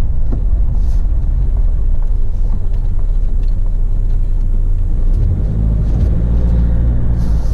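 Vehicle engine and tyre rumble heard from inside the cabin while driving on a dirt track, with a few light knocks and rattles. The engine note grows louder about five seconds in as the vehicle climbs.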